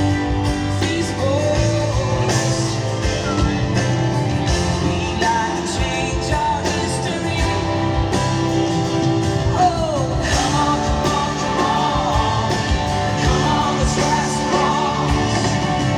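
Live pop-rock band playing a song with singing over guitar and a steady drum beat.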